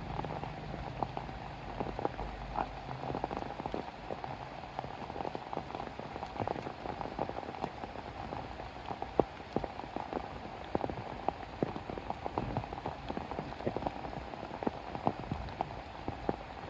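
Rain falling steadily, with many irregular drops ticking sharply on a surface. A low rumble fades out in the first second or two.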